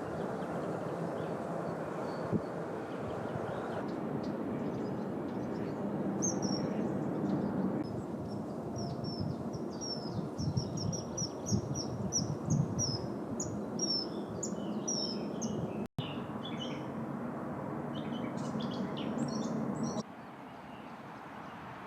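Small songbirds singing: a fast run of short, high, chirping notes, with more scattered high calls later, over a steady low background rumble. The sound briefly cuts out and then switches to a quieter recording, as between clips.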